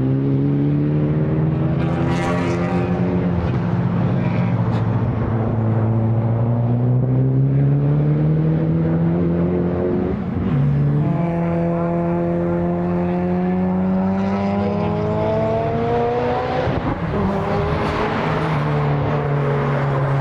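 Race car engine accelerating hard through the gears: its pitch climbs steadily for several seconds, drops sharply at a gear change about halfway, climbs again, and drops at another change near the end.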